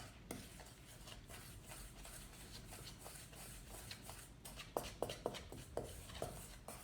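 A spoon stirring flour into stiff cookie dough in a small bowl: faint scraping with soft clicks against the bowl, turning into a quicker run of taps in the second half.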